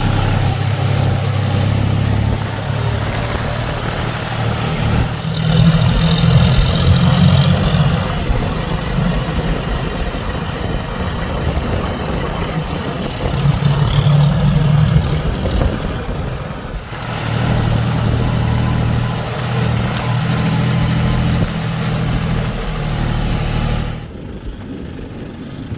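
Diesel engine of a JCB 3DX backhoe loader working, its low hum swelling in several spells as it revs up and settles back while digging and loading. It drops noticeably near the end.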